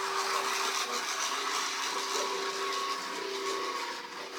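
HO scale model trains running on the layout: a steady whir of small electric motors and wheels on rail, with a faint steady hum that fades in and out.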